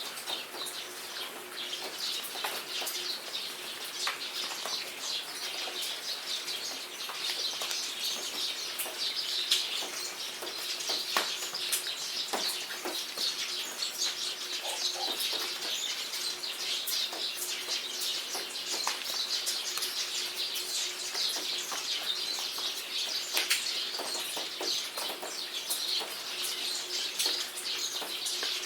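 Steady rain falling, with drops pattering and clicking, under a dense chorus of chirping birds.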